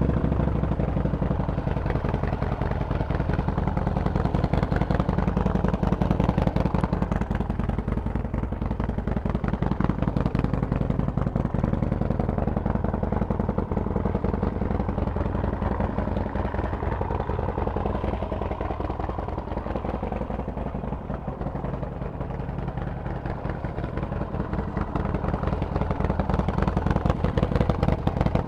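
Harley-Davidson Forty-Eight's 1200 cc V-twin running steadily through a Vance & Hines exhaust, a dense, even pulse of firing strokes that grows a little louder near the end.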